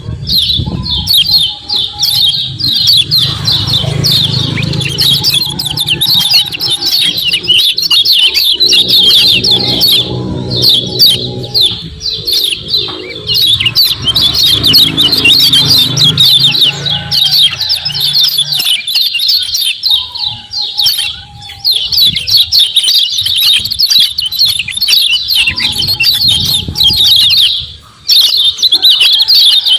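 Kecial kuning white-eye giving a fast, dense run of high 'ciak ciak' chirps, almost without pause, breaking off briefly near the end.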